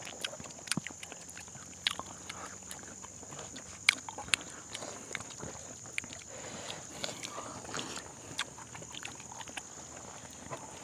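People chewing and smacking their lips while eating rice and curry with their hands, heard as many irregular wet clicks and smacks close to a clip-on microphone, over a steady high-pitched hum.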